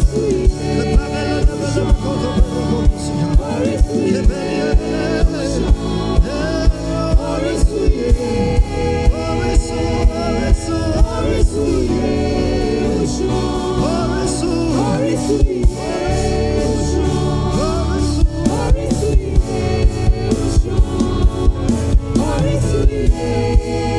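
Live gospel worship music: singers and choir with a band, over a steady drum beat of about two strokes a second. The drums drop out for a few seconds about halfway through while the singing carries on, then come back in.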